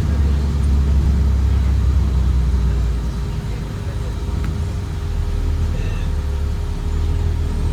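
Caterpillar C7 diesel engine and drivetrain of a school bus heard from inside the cabin as a steady low rumble, easing off about three seconds in and building again a couple of seconds later.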